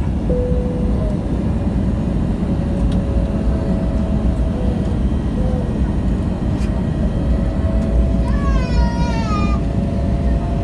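Airliner landing: a steady, loud, low rumble of engines and airflow with faint steady tones over it. About eight seconds in comes a short high cry that falls in pitch.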